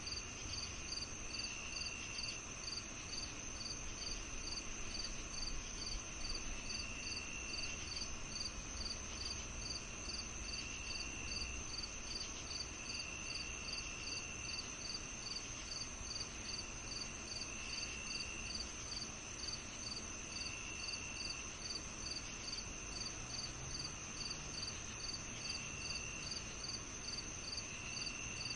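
Crickets chirping in an evening chorus: a steady high trill, a regular chirp about twice a second, and a lower trill about a second long that comes and goes every few seconds.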